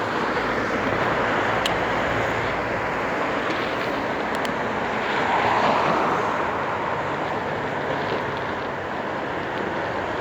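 Steady rushing wind and road noise from riding a bicycle through city traffic, swelling briefly around the middle.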